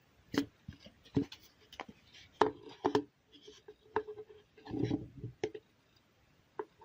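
Hands handling small hard objects: an irregular run of clicks and knocks, some with a brief ring, with a denser clatter about five seconds in.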